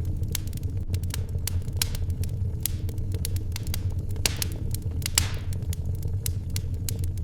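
Wood fire crackling in a fireplace: irregular sharp crackles and pops over a steady low rumble, with two louder pops about four and five seconds in.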